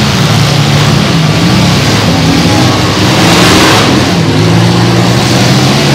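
Several compact demolition derby cars' engines revving hard and changing pitch as they drive and collide, with a brief louder swell of noise about three seconds in.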